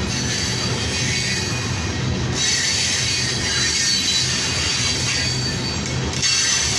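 Railroad tank cars rolling past close by: steady rumble of steel wheels on the rail, with a high-pitched wheel squeal running over it, stronger from about two and a half seconds in.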